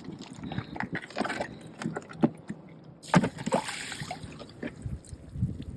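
Meltwater sloshing and splashing as an ice chest is tipped and emptied, with knocks from the plastic cooler and a louder pour about halfway through.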